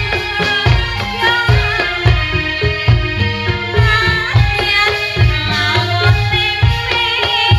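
Javanese barongan accompaniment music: kendang hand drums beating a steady rhythm under several melodic pitched instruments, with a singing voice.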